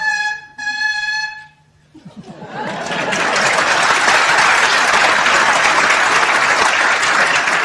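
A held note from a rifle played like a bugle ends about a second and a half in. After a brief pause the audience breaks into sustained applause.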